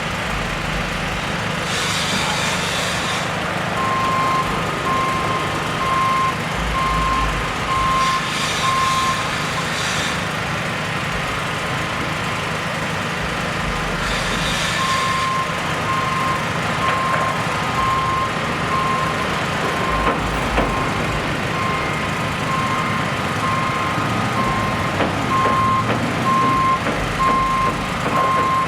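Construction vehicle's reversing alarm beeping in an even series over a steady diesel engine hum. The beeping starts about four seconds in, stops near nine seconds, and resumes around fifteen seconds, with a few short hisses between.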